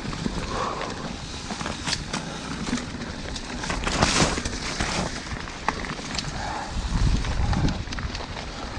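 Riding noise on a dirt trail: a steady crackling, crunching rush with scattered ticks. There is a louder rough patch about four seconds in, and wind buffets the microphone with a low rumble near the end.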